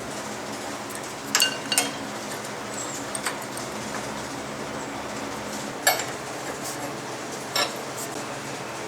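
Metal parts and hand tools clinking and knocking as machine hardware is handled: about five sharp, scattered clinks over a steady low hum.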